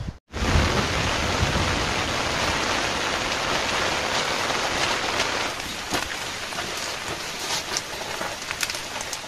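Heavy rain pouring down: a steady, dense hiss that begins abruptly just after the start. Sharper single drop hits stand out in the second half.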